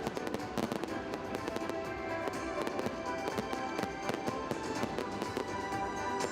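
Fireworks display: a dense, continuous run of sharp bangs and crackles, starting abruptly, with music faintly underneath.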